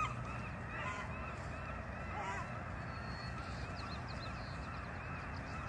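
Geese honking over and over, a steady run of many short calls overlapping one another.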